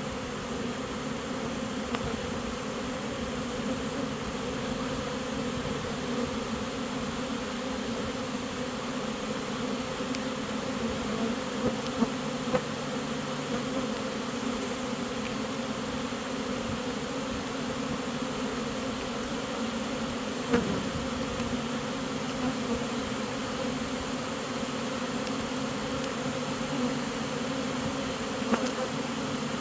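Honey bee swarm buzzing in a steady, dense hum of many wingbeats, with a few brief knocks.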